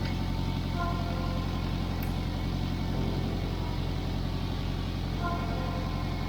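Car engine idling steadily, its exhaust leaking at a loose, broken joint between the rear muffler and the middle pipe.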